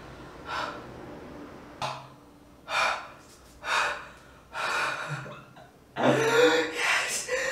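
A person gasping and breathing hard, one heavy breath about every second. From about six seconds in, this turns into a louder, continuous strained voice without clear words.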